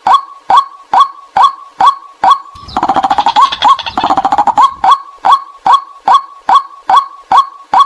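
White-breasted waterhen calls played as a lure call, a short note repeated about twice a second. From about three to nearly five seconds in, the calls break into a faster, louder run with deeper tones, then settle back into the steady repeated note.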